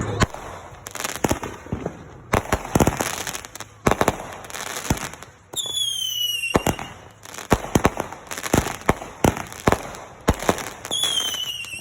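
Fireworks going off: a rapid string of sharp bangs and crackles, with two high whistles falling in pitch, one about six seconds in and one near the end.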